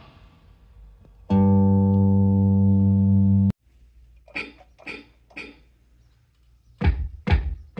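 Sounds from a Donner DED-200 electronic drum kit's module: a steady pitched tone held for about two seconds that cuts off suddenly, then three lighter drum hits, then three heavier, deeper drum hits near the end.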